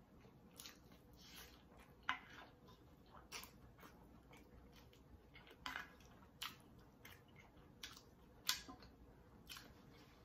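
A person chewing a mouthful of food close to a lapel microphone: faint, irregular wet mouth clicks and smacks, the sharpest about two seconds in and again near eight and a half seconds.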